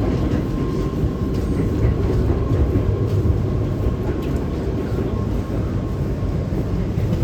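Kawasaki-built R211T subway car running between stations: a steady rumble of wheels on rail and running gear, with a faint steady high whine over it.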